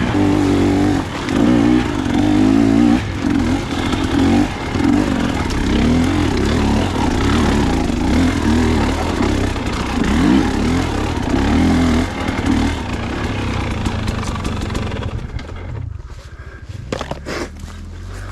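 Dirt bike engine revving up and down as the bike rides over rough trail, with the throttle opening and closing every second or so. About fifteen seconds in the engine drops away to a much quieter sound, with a few sharp clicks or knocks near the end.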